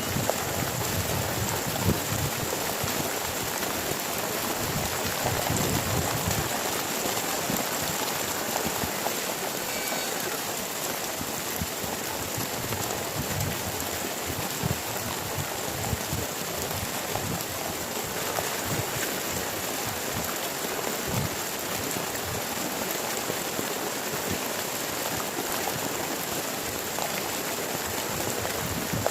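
Heavy rain falling steadily, an even hiss with scattered irregular drops hitting a surface close by.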